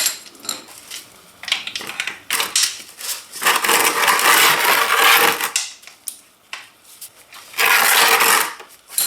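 Metal wrench working on the oil pan drain plug of a 2006 Kawasaki ZX-10R as it is loosened. Scattered metallic clicks, then two longer stretches of rapid metallic rattling, one around the middle and one near the end.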